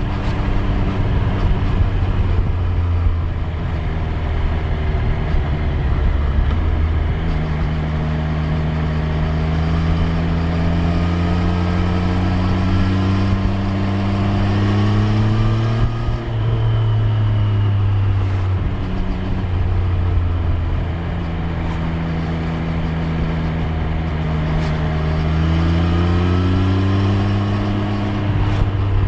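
Triumph Street Triple 765 R's inline three-cylinder engine pulling under gentle throttle, its pitch climbing slowly, dropping sharply about halfway through as the revs fall, then climbing again and dropping once more near the end.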